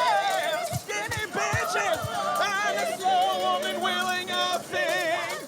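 Gospel choir singing, several voices holding notes together with wide vibrato. A few short low thumps sound during the first two seconds.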